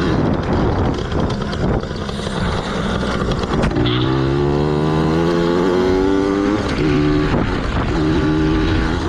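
Yamaha PW80's small two-stroke single-cylinder engine running under way. From about four seconds in it pulls with a steadily rising pitch, then holds in shorter steady spells broken by brief dips in the throttle.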